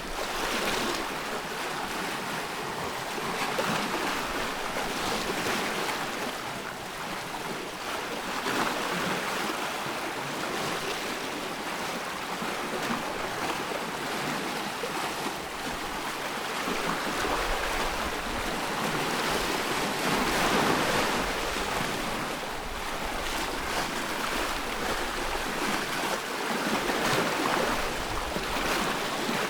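Ocean surf washing ashore, a steady rush of water that swells and eases every few seconds as waves break.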